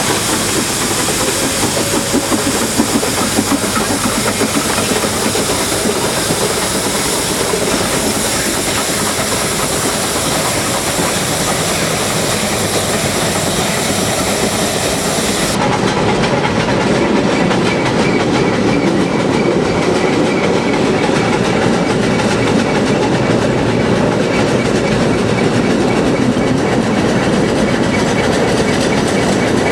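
Nilgiri Mountain Railway 0-8-2 rack steam tank locomotive and its train on the move: steady steam hiss and rail clatter. About halfway the high hiss drops away abruptly and the lower running sound of the train carries on.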